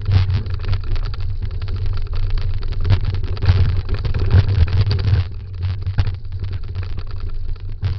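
Dryland dog scooter rolling fast over a rough trail: a steady low rumble with many small knocks and rattles from the bumps.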